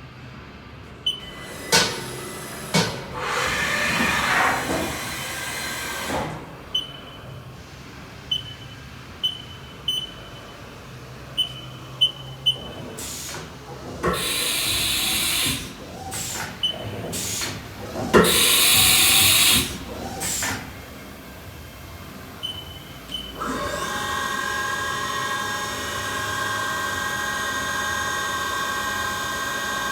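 Haas VF-8D CNC vertical machining center being operated. Short single beeps sound repeatedly, with a few hissing noise bursts lasting a second or two. About three-quarters of the way in, the 10,000 rpm gear-head spindle starts and runs steadily with a whine of several steady tones.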